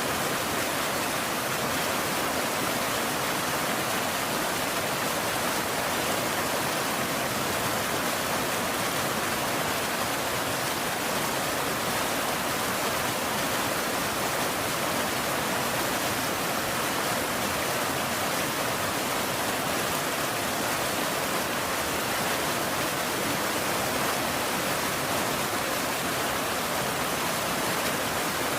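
Steady rain, an even, unbroken hiss with no thunder or separate drops standing out.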